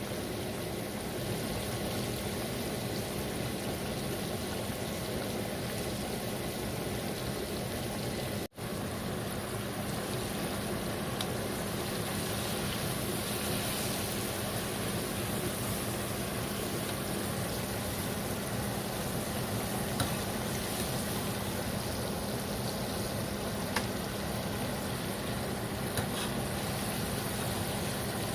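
Chicken pieces deep-frying in hot oil: a steady sizzle with a fine crackle, with a few sharp pops of oil in the second half.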